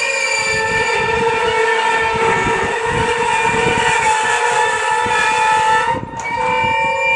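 Freight train of Falns hopper wagons rolling past close by, its wheels squealing with several high, sustained tones that drift slightly in pitch over the rumble and knocking of the wheels on the track. The squeal breaks off briefly about six seconds in and then returns.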